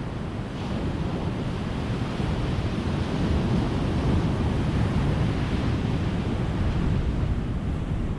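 Ocean surf breaking and washing on a beach: a steady rushing noise that swells a little in the middle.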